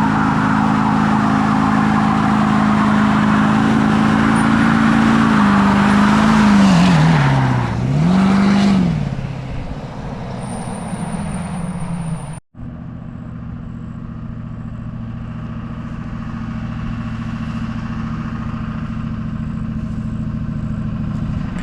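Motor vehicle engine running at steady revs, dipping sharply in pitch and rising again twice about six to nine seconds in. After a sudden cut it runs on at a lower, steady pitch.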